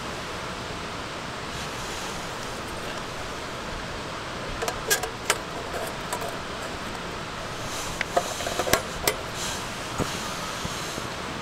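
A few light, sharp clinks of small hard objects, in a cluster around the middle and again near the end, over a steady hiss.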